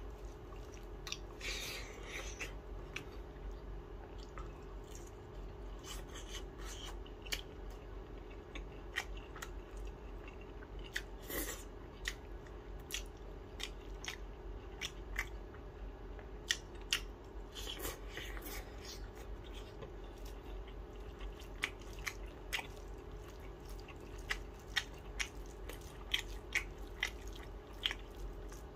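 A person eating by hand: chewing and mouth noises with scattered sharp wet clicks, coming about once a second near the end, over a steady low background hum.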